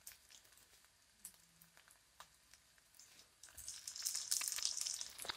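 A few faint clicks, then about three and a half seconds in, a steady sizzle starts: tomatoes going into onions frying in hot mustard oil in a kadai.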